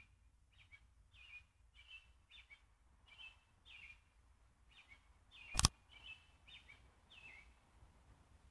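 A bird chirping over and over, short falling notes about every half second, with one sharp click a little past halfway.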